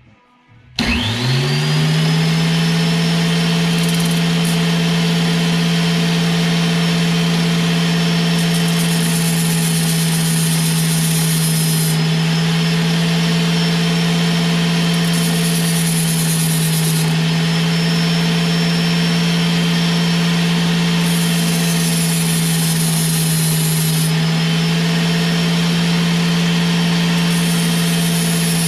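A high-speed rotary grinding tool spins up about a second in and runs at a steady pitch while grinding the cap off a fuel injector. A high, hissing grind comes and goes several times as the bit is pressed against the injector.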